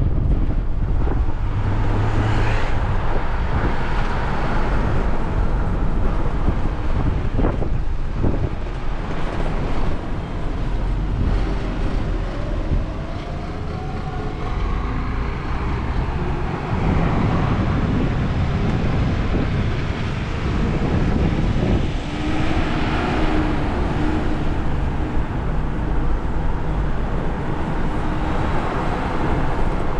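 Car driving along a road: steady road and engine noise with slow swells, heavy in the low end.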